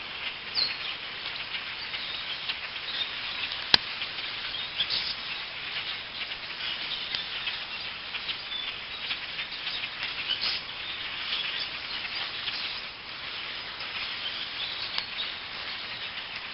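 A large flock of birds calling over one another in a dense, continuous chatter, with a single sharp click about four seconds in.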